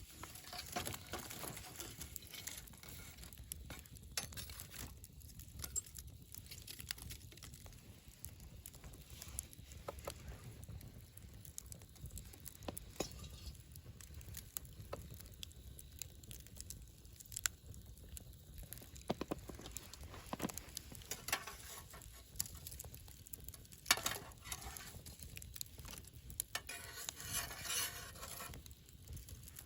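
Wood campfire burning: a low steady rumble of flame with irregular sharp crackles and pops from the burning wood, coming thicker near the end.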